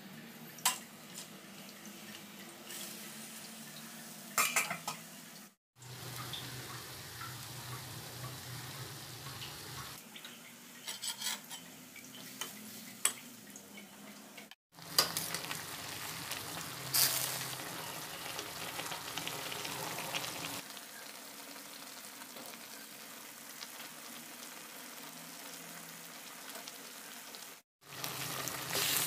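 Chicken and vegetables sizzling in a steel wok, with a steady frying hiss. A spatula scrapes and clinks against the pan every so often as the stir-fry is turned.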